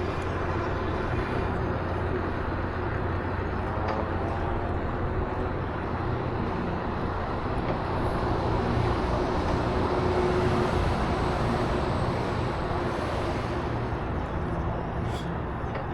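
Steady rush of wind and road rumble from a moving vehicle, swelling a little about halfway through.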